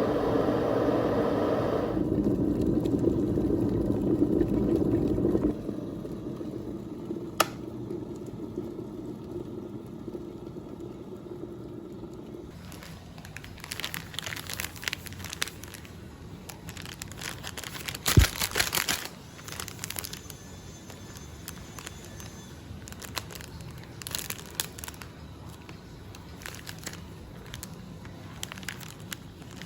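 Paper or foil packaging crinkling and rustling in irregular handfuls, with one sharp knock partway through. This follows a loud steady rushing noise that stops abruptly about five seconds in.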